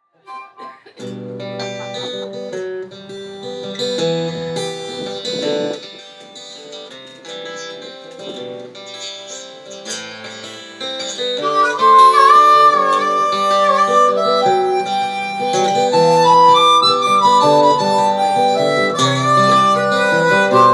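Instrumental song intro: acoustic guitar chords, joined about halfway through by a louder harmonica melody with held, bending notes.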